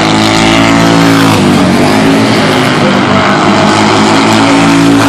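Superbike racing motorcycle engines running at high revs as the bikes go by, their note shifting about a second and a half in.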